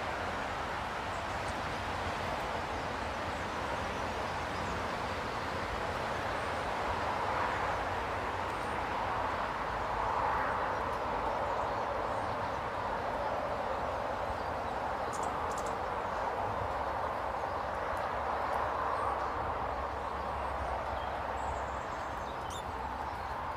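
Steady outdoor rushing noise with a low rumble, with a few faint, brief high bird chirps now and then.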